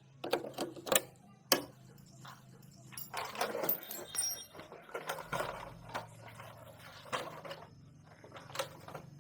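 Hand-tool work on motorcycle parts: several sharp clicks and knocks in the first second and a half, a busier stretch of rattling and scraping around the middle, then a few more knocks, over a faint steady low hum.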